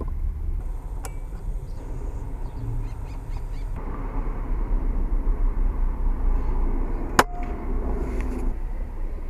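Steady low outdoor rumble with faint bird calls, and one sharp crack about seven seconds in, the loudest moment: a shot from a .22 pre-charged air rifle.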